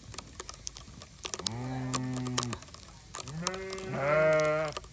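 Two long, low calls from a farm animal asking to be fed; the second is louder and rises slightly in pitch. Many light ticks sound in between.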